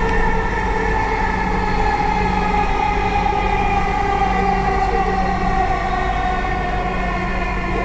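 Dhaka Metro Rail train heard from inside the carriage: the traction motors whine over a steady rumble of wheels on track. The whine falls slowly in pitch as the train slows for the next station.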